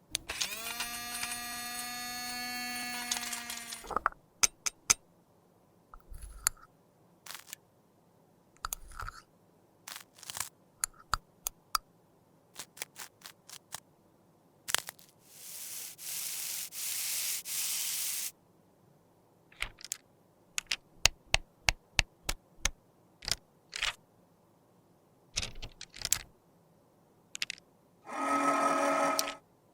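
Close-up clicks and taps of small cosmetic containers and tools being handled during makeup repair, with a steady hum for the first four seconds, a hiss of about three seconds midway, and a short buzz near the end.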